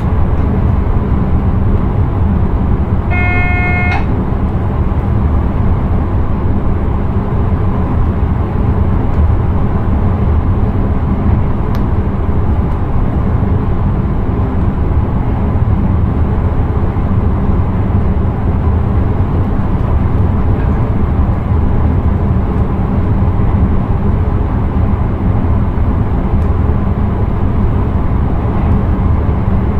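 Steady running noise of an intercity train heard from the driver's cab, a constant low rumble with a hiss of rail and wind noise. About three seconds in, a single short pitched tone sounds for under a second.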